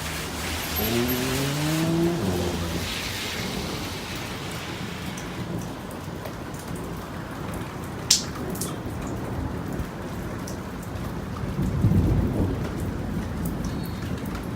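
Steady rain falling during a thunderstorm, with a low rumble of thunder swelling about twelve seconds in. A sharp crack sounds about eight seconds in, and a brief rising whine comes near the start.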